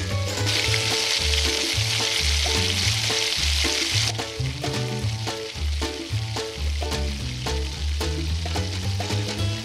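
Sliced red onions frying in butter in a frying pan, sizzling loudly from about half a second in and cutting off abruptly around four seconds in. A backing track with a bass line plays throughout.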